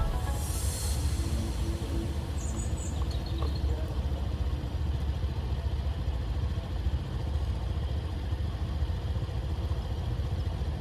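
Steady low engine rumble of a vehicle on the move, with no clear changes.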